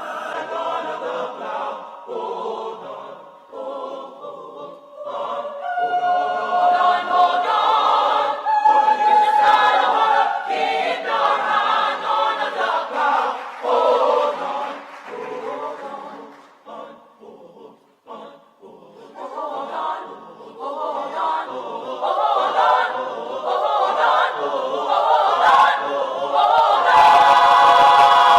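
Church choir singing, swelling in the middle, dropping away briefly about two-thirds through, and loudest near the end.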